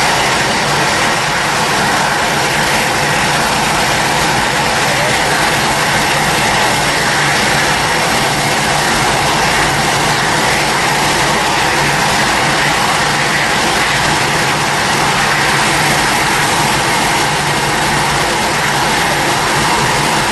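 Airliner jet engines running steadily at low power: a loud, constant rush of engine noise that does not change.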